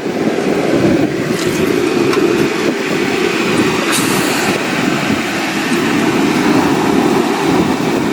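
Portable heater running with a steady, loud blowing noise, set to thaw an ice-laden tree. A brief hiss comes about four seconds in.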